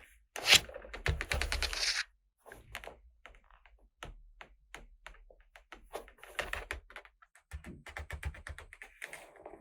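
Small hard plastic toy pieces being handled, clicking, tapping and rattling against each other and their packaging, with a dense rattling run about half a second in that lasts a second and a half, then scattered clicks and a second busy run of taps near the end.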